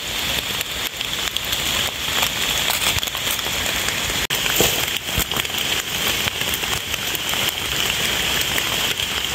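Steady rain falling on forest leaves and leaf litter: a dense patter of drops.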